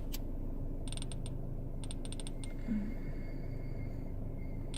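Smartphone timer picker wheel ticking as it is scrolled: a quick run of about four ticks a second in, then another run of ticks around two seconds in, over a low steady hum.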